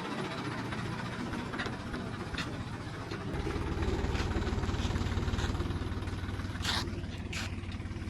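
Heavy diesel engine running, growing louder and heavier about three seconds in, as under load or revving, with a couple of sharp knocks near the end.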